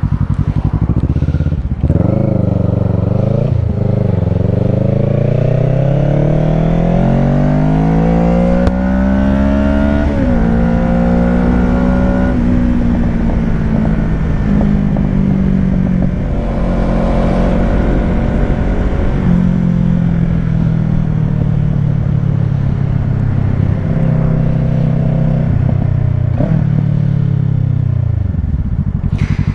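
Kawasaki Ninja 650 parallel-twin engine through a Shark SRC-4 full exhaust system, accelerating hard. It revs up through two quick gear changes, then makes a long pull in the next gear and settles into a steady cruise. The revs drop near the end.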